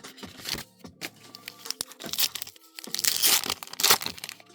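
Foil booster pack wrapper being torn open and crinkled, with the loudest tearing around two seconds in and again from about three to four seconds in.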